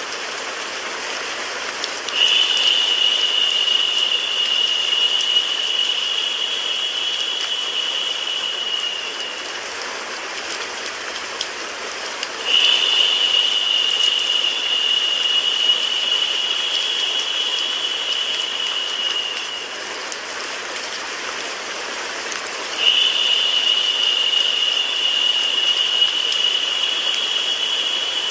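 Recorded rain blended with white noise: a steady, even hiss. A high, steady whine comes in three times, about ten seconds apart, each lasting about seven seconds.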